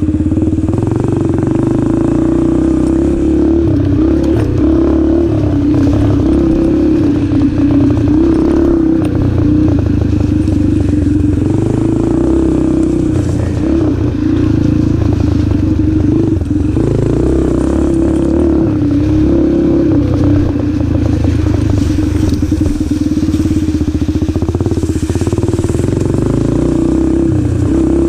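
Yamaha TT-R125 dirt bike's small single-cylinder four-stroke engine running steadily under way, its pitch wavering a little with the throttle.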